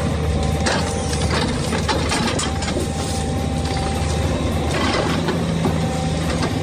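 Heavy machine's diesel engine running steadily under load, with scattered sharp cracks and knocks of wood being broken up.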